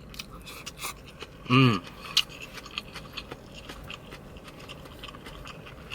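Close-up eating sounds of someone chewing a mouthful of chicken biryani: many small wet clicks and light scrapes, with a brief murmur from the eater about a second and a half in.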